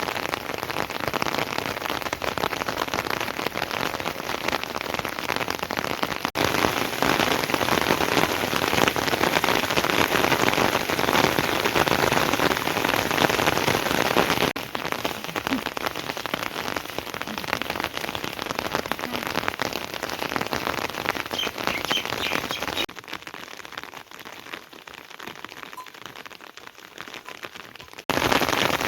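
Heavy rain pouring down, a dense steady hiss of drops on surfaces. The level jumps abruptly several times, and near the end there is a quieter spell of lighter rain for about five seconds before it returns heavy.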